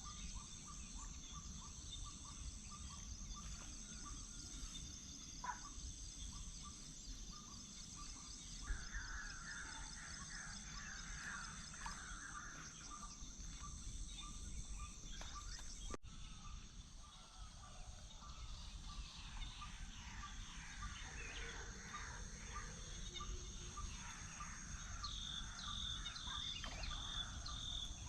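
Rural dawn ambience: a steady high insect drone under scattered bird chirps and calls, over a low rumble. About halfway through, the sound breaks off sharply and picks up again at a splice.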